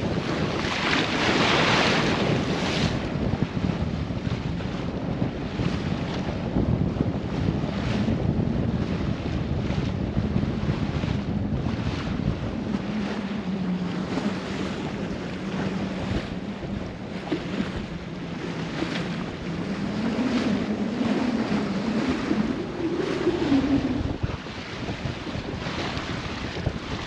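Wind buffeting the microphone and water rushing along the hull of a sailboat under sail, in uneven gusts. A faint wavering tone hums underneath through the middle, rising in pitch near the end.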